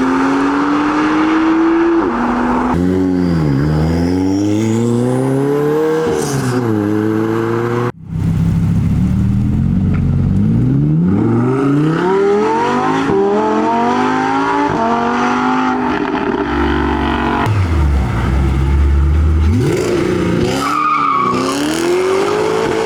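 Performance car engines revving hard as the cars accelerate away. The pitch climbs and drops sharply with each gear change, several times in a row. About 8 seconds in, the sound cuts abruptly to another car pulling away through its gears, with a deep low rumble a little over halfway through.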